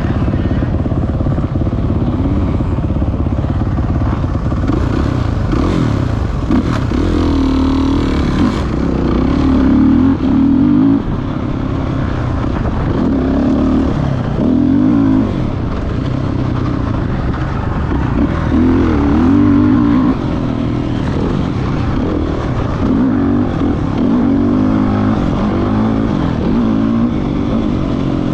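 Motocross dirt bike engine running hard, its revs rising and falling over and over, with several louder surges of high revs.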